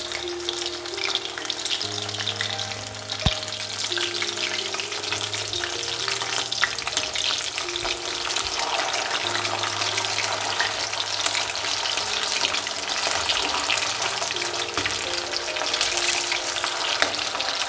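Whole marinated quails shallow-frying in hot oil in an aluminium kadai, a steady sizzle, while a wooden spatula stirs and turns them. One sharp knock comes about three seconds in.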